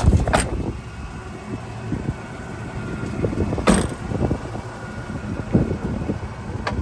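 Supercharged big-block V8 of a Chevrolet Silverado 2500HD pickup running with a steady low rumble. A sharp knock sounds at the start and another, louder one about three and a half seconds in.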